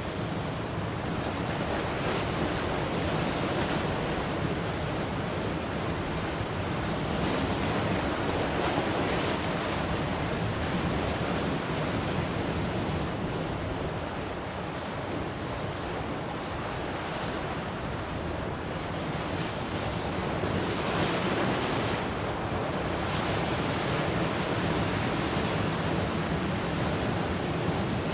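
Ocean waves breaking and washing on the shore, a continuous surf noise that swells and eases every few seconds.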